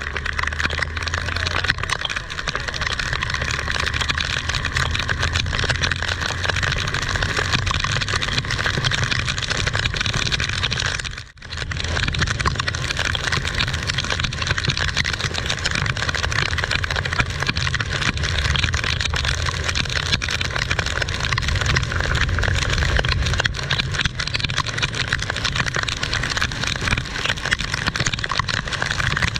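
Heavy rain falling: a steady loud hiss over a low rumble, cutting out for a moment about eleven seconds in.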